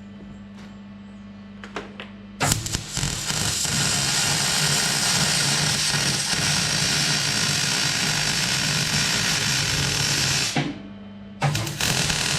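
Electric welding arc crackling steadily for about eight seconds, stopping briefly, then striking up again near the end. A low steady hum sits under it and is heard on its own before the first strike and in the gap.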